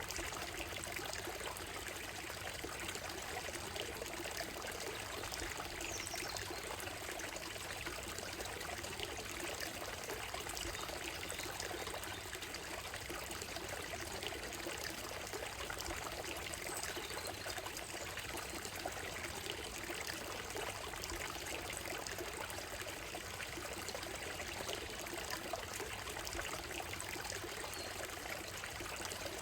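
Shallow stream running steadily over stones and gravel, a continuous trickling and splashing rush of water.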